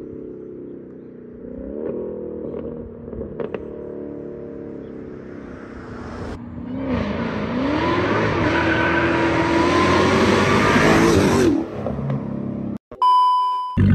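Straight-piped Dodge Challenger Hellcat's supercharged Hemi V8 running at low revs, then accelerating hard from about halfway through. The exhaust note climbs steadily in pitch and grows loud before cutting off abruptly. Near the end comes a brief steady high tone, then the engine again.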